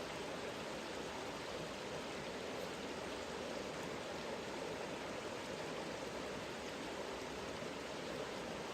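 Mountain river running steadily, an even rushing of water.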